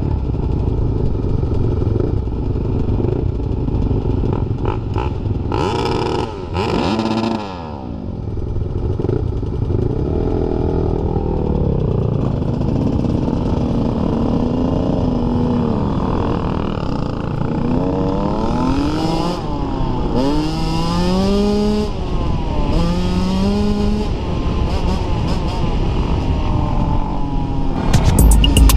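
Dirt bike engines running on a trail ride, revving up and dropping back again and again as the bikes accelerate and shift, over a steady low rumble.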